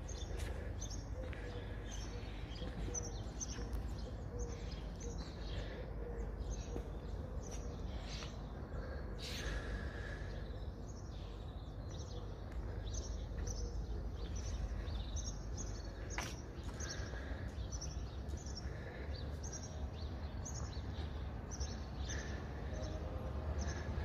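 A small bird chirping over and over, short calls repeated about once or twice a second, over a steady low background rumble of outdoor noise.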